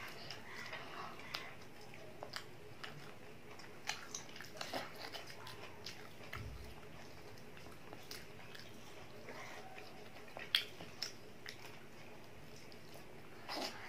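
A child biting and chewing fried chicken off a chicken lollipop: quiet, scattered mouth clicks and smacks, with a soft low bump about halfway through.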